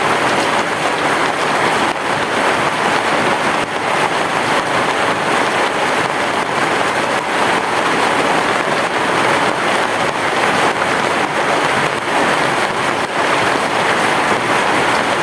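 Heavy rain falling on a roof: a steady, dense patter of drops with no thunder.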